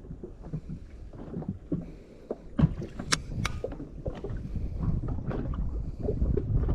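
Wind buffeting the microphone and water sloshing against a small boat's hull at sea, with a few sharp knocks, the loudest about two and a half seconds in.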